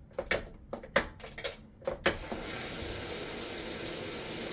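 A 1999 Kenmore Series 90 washing machine's timer knob clicking as it is turned, about four or five clicks a second, then about two seconds in a steady hiss of water starts suddenly as the washer runs on its repaired control.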